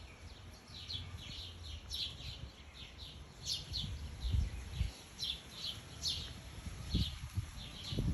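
Small songbirds chirping: many short, high, downward-sliding chirps, often in quick pairs, repeating throughout. These are the calls of a fledgling and its parent during a feeding. A few low thumps, from camera handling or wind, come in the middle and near the end.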